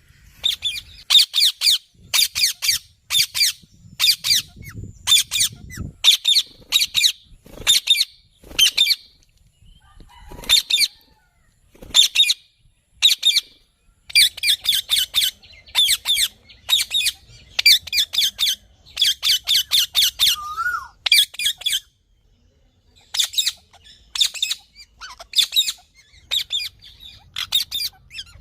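A green parrot calling: short, harsh screeches given in quick runs of several, with brief pauses between the runs.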